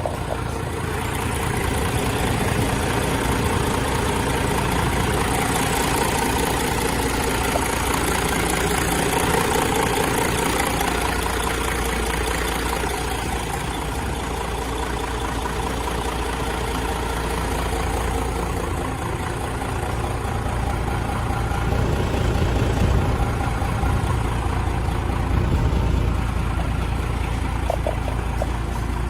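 Isuzu Giga heavy truck's diesel engine idling steadily, swelling a little twice near the end.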